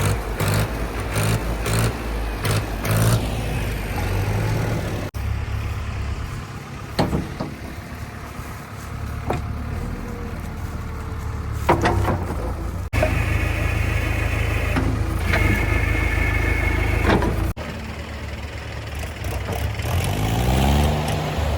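Diesel engines of a backhoe loader and tractors running, the sound changing abruptly three times. Scattered sharp knocks and clanks come in the middle, and an engine revs up near the end.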